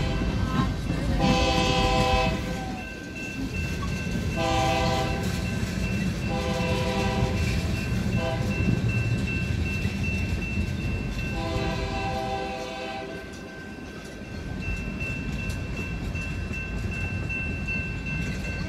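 Freight cars rolling past with a steady rumble of wheels on the rails, while a train horn blows four blasts, the last about twelve seconds in.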